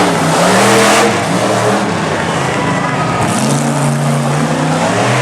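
Monster truck engine revving, its pitch rising and falling several times over a noisy roar.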